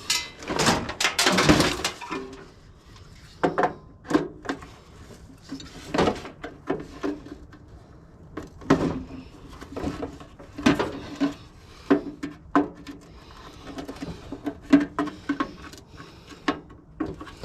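Hands-on teardown of scrap: a loud rasping scrape for about the first two seconds, then irregular metal knocks and clinks, some with a brief ring, as parts and tools are handled and pulled apart.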